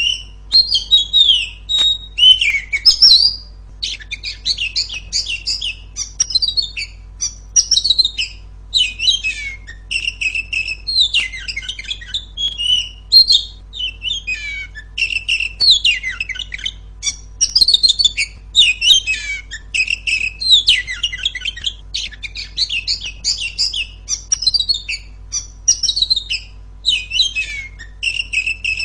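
Female Oriental magpie-robin (kacer) singing a loud, continuous run of quick chirps, whistles and harsh warbled notes, with only brief pauses.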